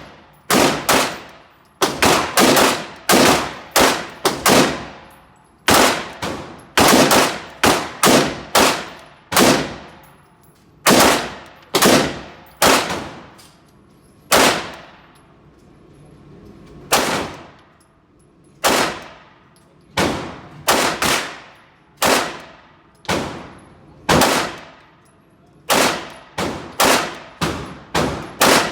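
Pistol shots fired one after another through a drill, roughly one a second and at times two or three in quick succession, each shot followed by a short ringing tail.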